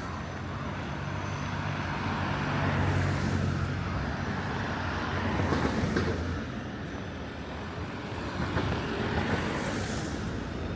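Road traffic on a city street: vehicles passing one after another, swelling and fading, loudest about three and six seconds in, over a steady low engine hum.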